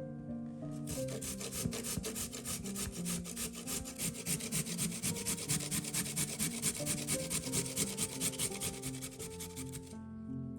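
Rapid, even scraping strokes of food preparation, starting about a second in and stopping near the end, over background instrumental music.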